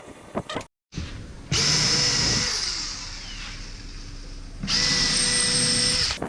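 An electric power tool, likely a drill, starts about a second and a half in and runs with a steady high whine. It eases to a quieter, lower run in the middle, then comes back up to full speed near the end.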